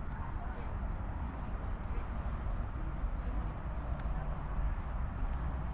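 Outdoor ambience with a low steady rumble, and a short high-pitched chirp repeating about once a second, from a bird or insect.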